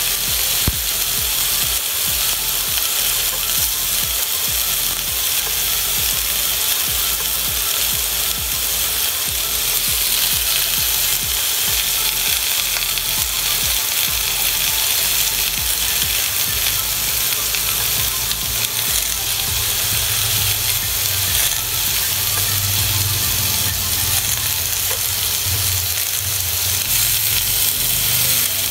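Silken tofu and luncheon meat cubes frying in oil in a cast-iron skillet: a steady sizzle while the pieces are turned with chopsticks.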